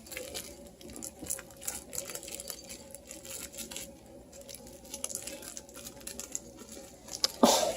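Beagle puppies scuffling and playing: scattered light taps, scrabbles and rustles of paws and toys, with one brief louder sound about seven and a half seconds in.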